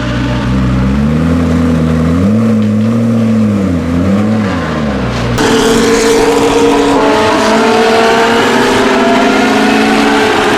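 McLaren P1's twin-turbo V8 running at low revs with small blips of the throttle, the pitch rising and falling. About five seconds in, the sound jumps abruptly to a higher, steady engine note that slowly climbs in pitch.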